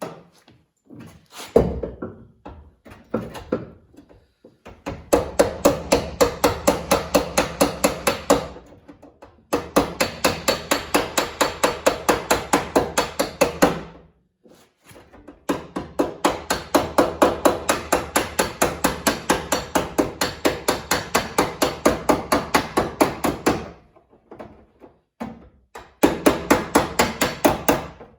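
Body hammer striking sheet metal, in long runs of fast, even blows about six a second with short pauses between runs, after a few scattered single knocks at the start. The metal of a Honda Civic quarter panel is being worked flat and into shape.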